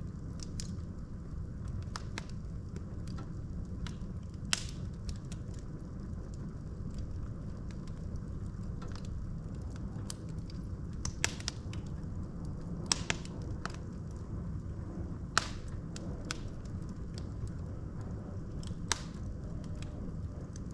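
Wood fire burning in a fireplace: a steady low rumble of flames with logs crackling, and sharp pops now and then, the loudest about four and a half, eleven, thirteen, fifteen and nineteen seconds in.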